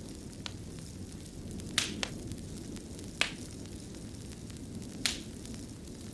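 Wood fire in a fireplace crackling: a steady low rumble of burning with about five sharp pops spread through it.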